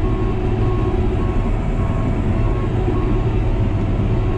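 New Holland D180C crawler dozer's diesel engine running steadily under load, heard from inside the cab, with the cooling fan running louder than usual because it is in its 20-second reverse cycle to blow the radiator clean. A short beep repeats a little under twice a second over the engine noise and pauses near the end.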